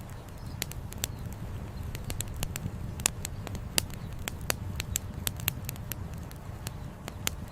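Campfire firewood crackling: frequent sharp, irregular pops and snaps over a steady low rumble.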